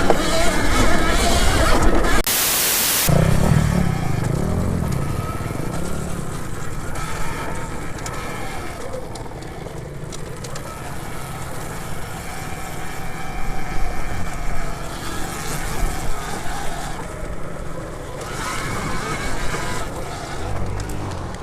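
Ride noise from a camera on an electric dirt bike: wind rushing over the microphone and tyres on the dirt trail, loudest at the start. There is a brief sharp hiss about two seconds in.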